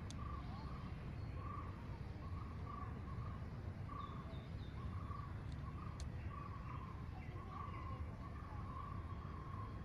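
Birds calling: a string of short, repeated calls at the same pitch, with a few higher chirps about four seconds in, over a steady low rumble.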